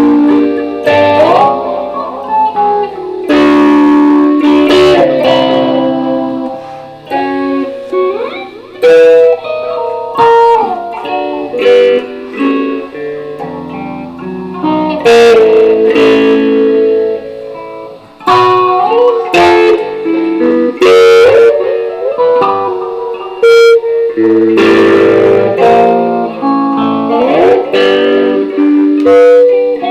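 BC Rich Warlock electric guitar being played: picked single notes and chords, with frequent slides and bends between notes.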